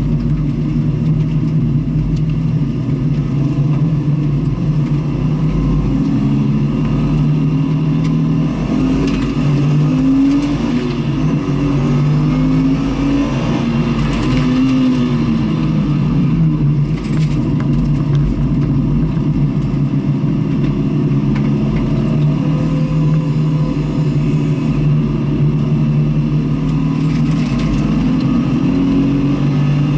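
Onboard sound of a vehicle engine running hard on a race circuit. The note climbs under acceleration, steps at gear changes and glides down under braking, over a steady low rumble of wind and road.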